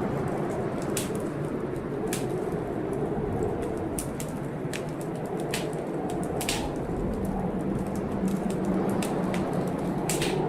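Wood fire crackling, with irregular sharp snaps and pops, over a steady low rumble of a storm with wind and rain.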